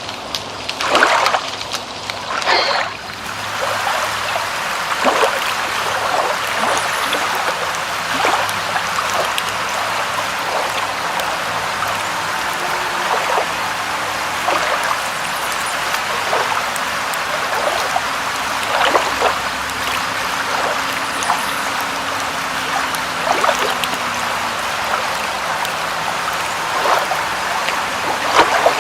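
Water running and trickling in a steady rush, with louder splashes or drops breaking through every few seconds.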